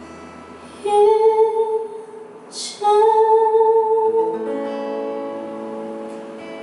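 A woman sings two long held notes, the closing word '이젠' (i-jen), over acoustic guitar at the end of a song. The guitar chords then ring out.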